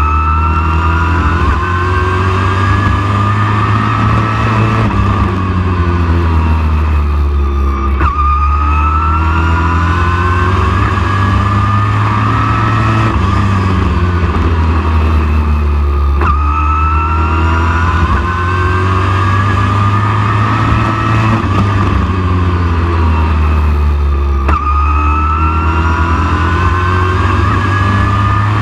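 Super truck race engine at racing speed, its revs climbing along each straightaway and falling as it lifts for each turn. The cycle repeats about every eight seconds, four times, under a steady low rumble.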